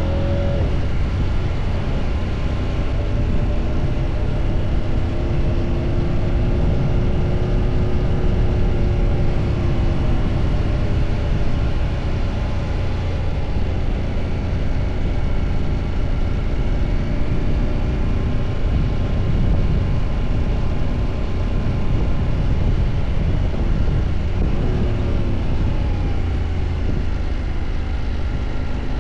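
Husqvarna motorcycle engine running while riding, its pitch slowly rising and falling with speed, over a steady low rush.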